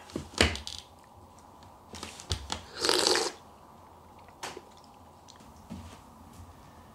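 Small knocks and clicks from objects being handled on a desk, with a brief rustle about three seconds in.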